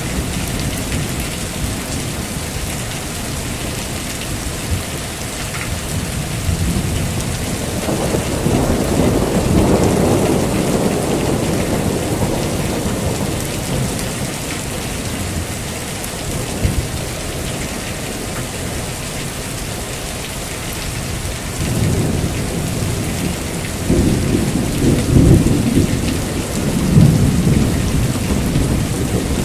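Heavy rain falling steadily, with rolls of thunder rumbling low, one swelling about a third of the way in and another stronger rumble near the end.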